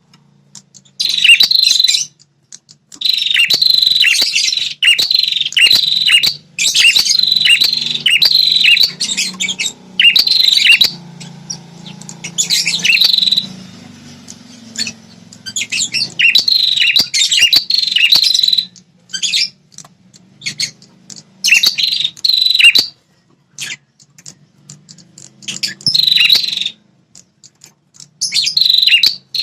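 Prenjak kepala merah singing vigorously: bouts of sharp, high chirping notes repeated in fast runs, each bout lasting a second or two, with short pauses between. It is the bird's territorial song, used to provoke wild males into answering.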